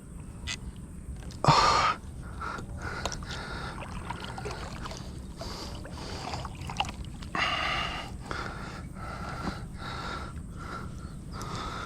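Kayak fishing sounds: scattered knocks and clicks on the boat, with two loud rushing bursts, one a little over a second in and one about seven seconds in.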